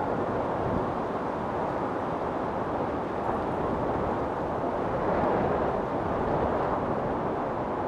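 Wind storm blowing in a steady, dense rush of noise, swelling a little about five seconds in.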